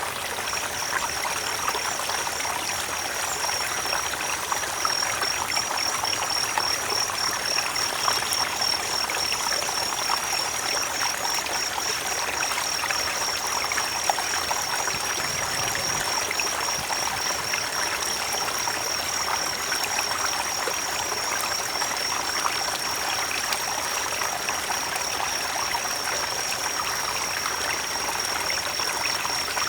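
A creek's water running steadily, with a continuous high, pulsing trill over it.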